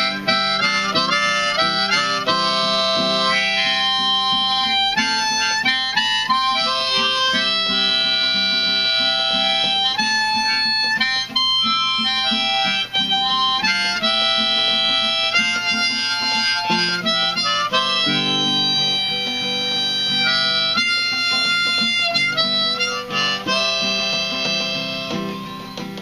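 Harmonica playing a melody line of long held notes over acoustic guitar: an instrumental break between verses of a gospel song.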